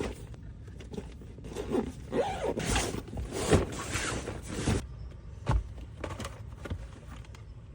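Items being handled and shifted around in a car: irregular rustling and scraping with a few sharp knocks, busiest in the first half.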